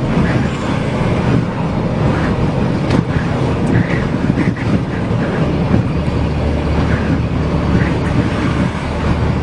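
Loud, steady low rumble of strong wind and vehicle noise, with no distinct single events.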